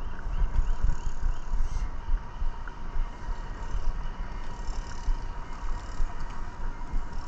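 Wind buffeting the action camera's microphone while riding an e-bike, a gusty low rumble with a faint steady whine above it.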